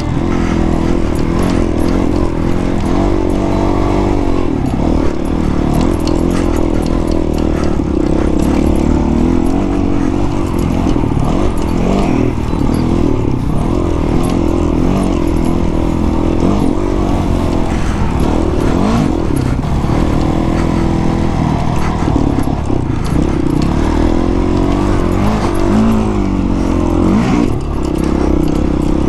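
Honda CRF450 dirt bike's single-cylinder four-stroke engine running hard while riding a trail, its revs rising and falling again and again with the throttle.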